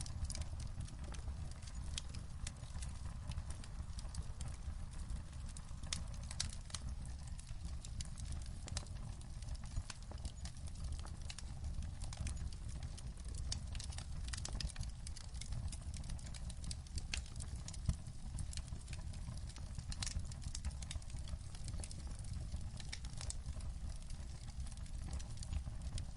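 Wood fire crackling in a fireplace: many sharp, irregular crackles and pops over a steady low rumble.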